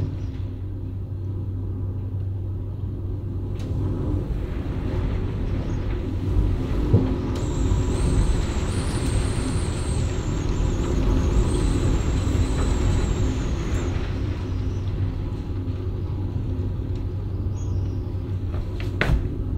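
Hurricane-force storm wind buffeting a cabin, heard from inside: a continuous low rumble that swells with a hissing gust for several seconds in the middle.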